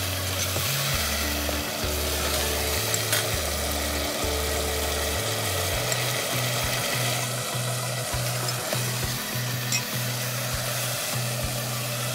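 Spice masala with onion, garlic and ginger paste sizzling as it fries down in a pot on a gas burner while being stirred, with a couple of light utensil clicks. Steady low notes of background music play underneath.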